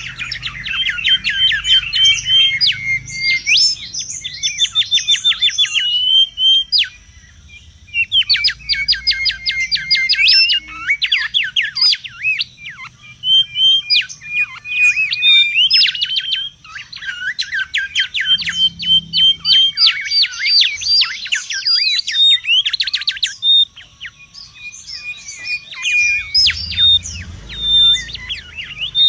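Mangrove whistler singing busily: long runs of rapid, sharp whistled notes, each quickly rising or falling in pitch, in phrases of several seconds with two short lulls.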